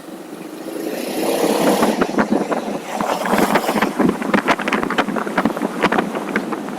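Motorcycle on the move with wind buffeting the microphone in rough, crackling gusts; the noise swells from quiet to loud over the first two seconds.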